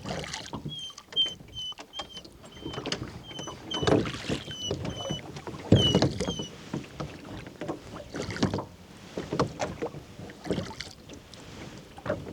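A gull calling in a quick series of short, high, sharp notes, about two a second, through the first half. Under it come the knocks and splashes of oars working a rowing boat.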